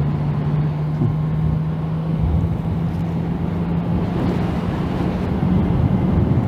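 Yamaha MT-09 three-cylinder engine at a steady cruise, a constant low drone, with heavy wind and road rumble on the microphone.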